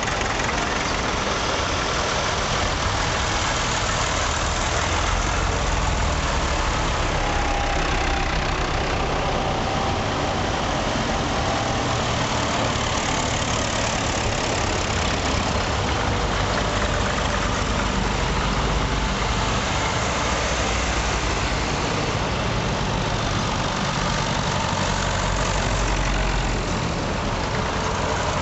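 Vintage tractor engines running steadily at idle.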